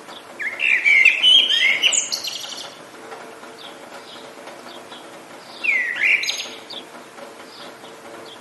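A songbird singing two loud, quick warbling phrases, one about half a second in lasting about two seconds and a shorter one around six seconds, with fainter chirps from other birds between them. Under it runs a steady hiss of rain.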